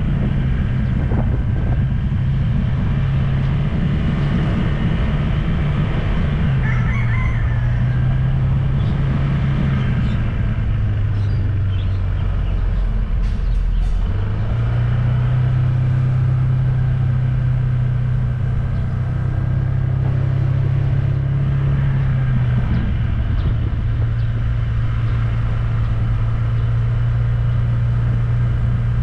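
A vehicle engine runs steadily throughout, its pitch stepping down twice, rising about 14 seconds in and dropping again later as its speed changes. A rooster crows briefly about seven seconds in.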